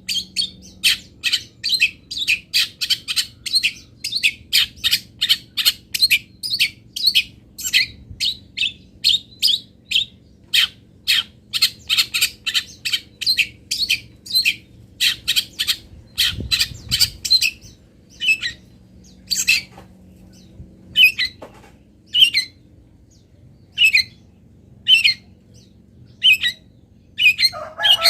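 Small songbird giving a rapid series of short, sharp, high chirps, about three a second, which become sparser and more spaced out after about 18 seconds.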